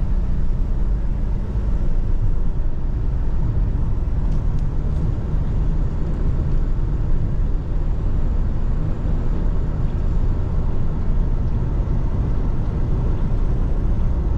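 A car driving along the road: a steady low rumble of engine and tyres.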